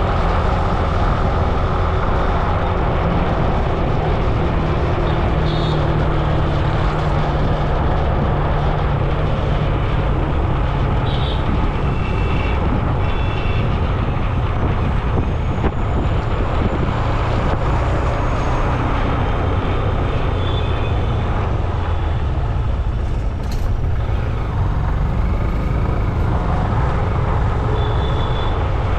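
Steady road traffic noise with a continuous low vehicle rumble, with a few faint short high tones over it.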